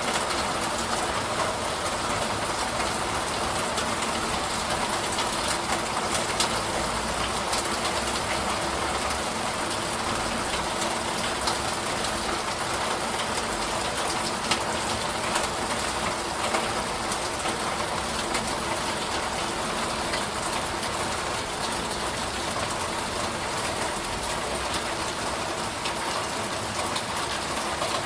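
Steady rain shower, an even hiss of rainfall with scattered sharper drop ticks.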